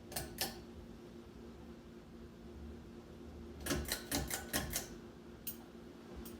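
A series of sharp clicks from a ceiling fan's pull-chain speed switch being operated: two clicks, then a quick run of about six, then a couple more singly. A faint steady hum runs underneath.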